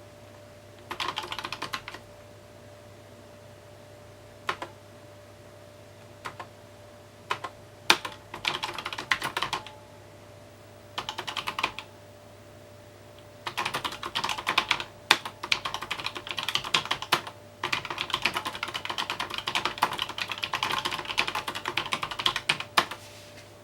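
Typing on a mechanical keyboard: runs of quick key clicks broken by pauses and a few single keystrokes, with the longest, densest runs in the second half. A faint steady hum lies underneath.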